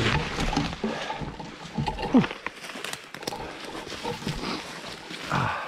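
Boots squelching and sloshing through waterlogged bog moss, sinking in, with the hiker's short effortful grunts and breaths; a brief falling-pitch grunt about two seconds in is the loudest sound.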